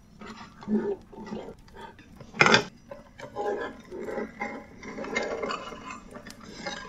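Tabletop fountain parts being handled and fitted together: irregular clattering and rubbing, with one sharp knock about two and a half seconds in.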